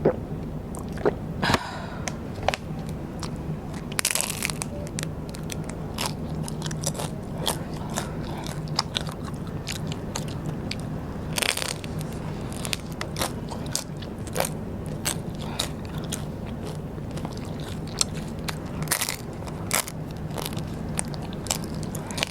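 Close-miked eating of rice paper snacks: bites and chewing with many sharp crackles and crunches, three of them louder. A faint steady low hum runs underneath.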